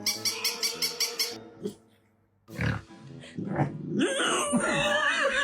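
A puppy grunting, with background music.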